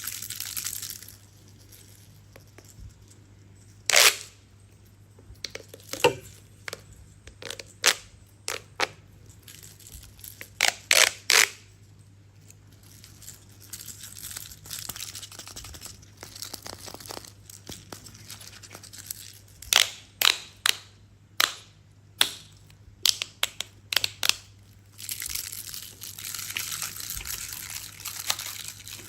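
Toy being handled: sharp clicks and knocks, single and in quick clusters, with rustling near the start and again over the last few seconds.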